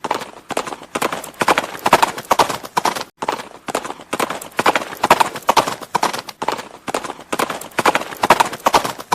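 Horse hooves clip-clopping on hard ground in a steady rhythm, the hoofbeats coming in quick clusters a little faster than once a second.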